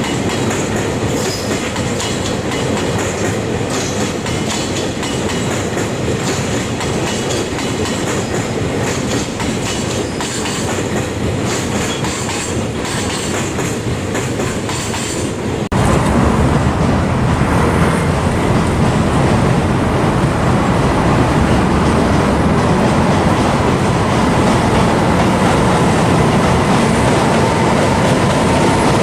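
Freight train running past on the tracks, a continuous loud rolling rail noise. About halfway through the sound changes abruptly and gets louder, and a faint steady whine rises near the end.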